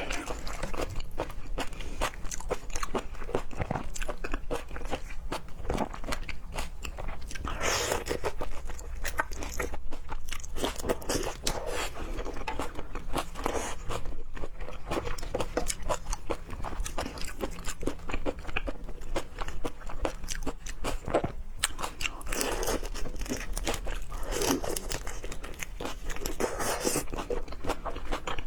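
Close-miked chewing and biting of raw seafood, with dense wet clicks and crunchy bites all through, over a steady low hum.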